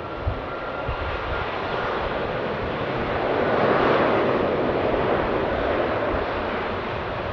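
Jet airliner's engines roaring as it passes, swelling to loudest about four seconds in and then easing off, with a faint high whine that fades out after about two seconds.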